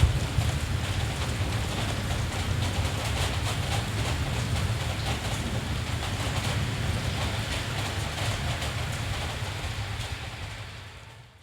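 Steady rain with a low rumble underneath. Near the end it fades down almost to silence.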